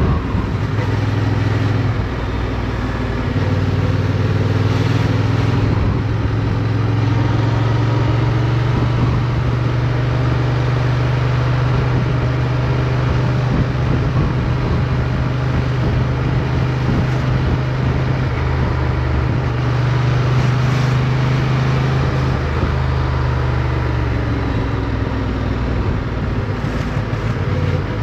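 Motorcycle engine running under way, recorded onboard, at a fairly steady pitch with small rises and falls as the throttle changes.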